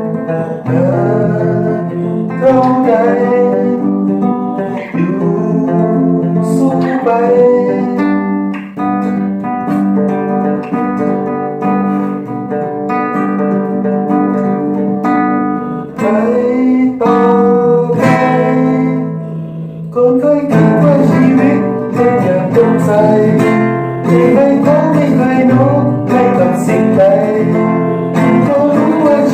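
Flamenco-style music led by acoustic guitar, strummed and plucked, in an instrumental stretch of a song.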